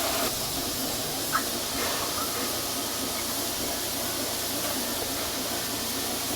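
Steady hiss of escaping steam from a narrow-gauge steam locomotive, with a brief high chirp about a second and a half in.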